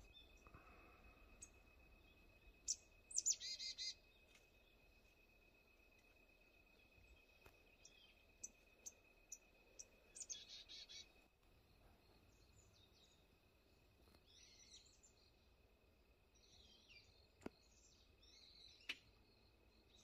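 Quiet forest ambience with small birds calling: short high chips and two brief rapid chattering calls, about three seconds in and again about ten seconds in, with scattered softer calls later. A faint steady high tone runs underneath, and a single sharp click sounds near the end.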